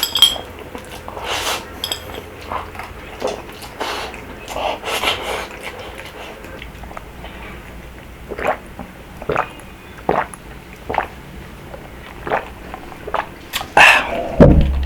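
Close-miked eating sounds of rabokki: wet chewing and slurping of noodles and rice cakes, with irregular short mouth smacks.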